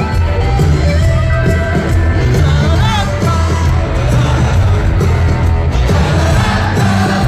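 Live rock band playing loud, with bass, drums and singing.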